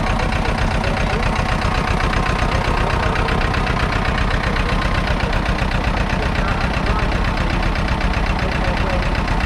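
1955 Hanomag R16 tractor's 1.4-litre two-cylinder diesel engine running steadily at idle with a rapid, even knock.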